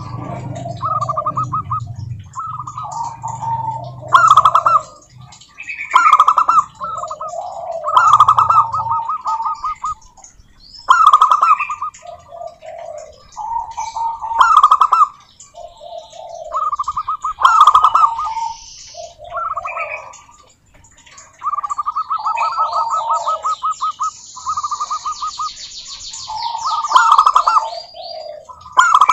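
Zebra doves cooing: repeated phrases of rapid staccato notes, one phrase every second or two, some overlapping. Near the end there is a higher, fast chirping.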